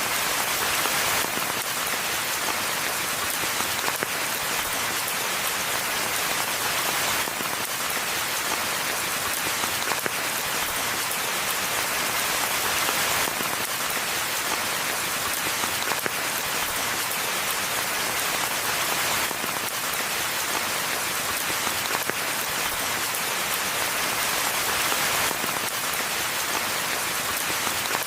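Steady rain falling in a forest: an even hiss of many drops with no thunder, its brightness shifting slightly about every six seconds.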